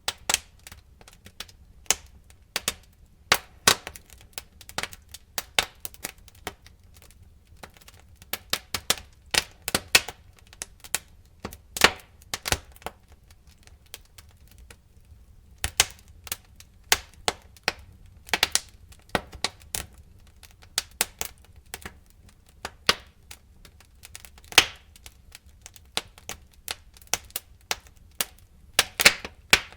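Wood fire crackling in a fireplace: irregular sharp pops and snaps, some louder than others, over a faint steady low rumble.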